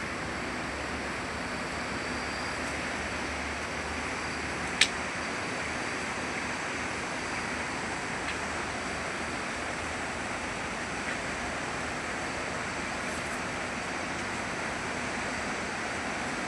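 Steady rushing of river water, an even unbroken noise, with a single sharp click about five seconds in.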